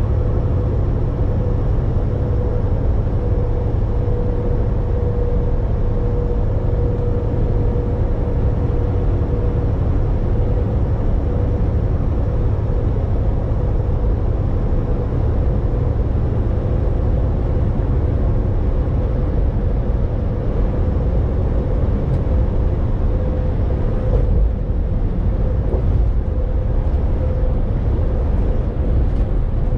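Volvo VNL 860 semi truck driving along, with a steady low engine and road rumble and a constant hum. A few light knocks come in the last few seconds.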